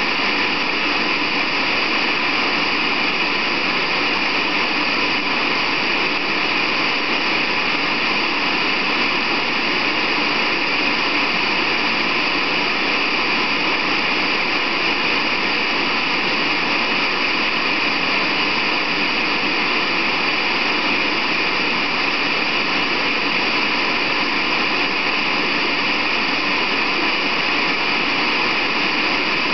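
Continuous white noise: a steady, unchanging hiss, brightest in the upper range, with no breaks or changes.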